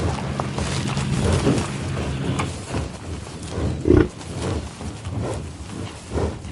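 Farm animal giving several short calls over a steady low rumble of outdoor noise, the loudest call about four seconds in.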